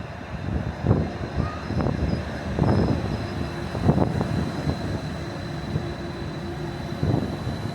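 A train running at the station: a steady low rumble broken by a few irregular knocks, with a faint steady whine.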